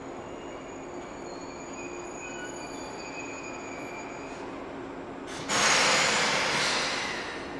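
Electric train in a station: faint high-pitched brake squeal over a steady low hum, then about five and a half seconds in a sudden loud hiss of released compressed air that fades over about two seconds.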